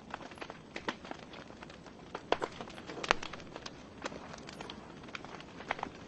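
Wood fire burning in a fireplace: burning logs crackle and pop at irregular moments over a low steady hiss, with two louder pops a little past the middle.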